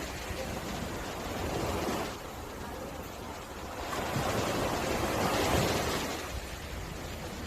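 Small sea waves breaking and washing on a beach, a rushing that swells and eases twice, the second swell the larger.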